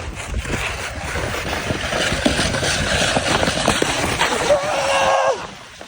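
Snowskate sliding down an icy, snowy slope, a steady gritty scraping and crunching with wind rush on the microphone that grows louder through the run. Near the end a short held yell sounds, and then the scraping stops abruptly.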